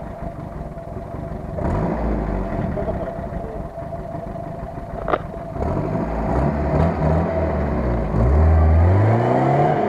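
Ford Maverick SUV's engine idling, then revving up and down from about halfway through. Near the end it accelerates with a steadily rising pitch as the vehicle pulls away. A single sharp click comes about five seconds in.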